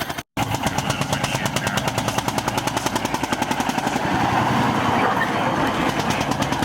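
Vintage engine running with a rapid, regular exhaust beat.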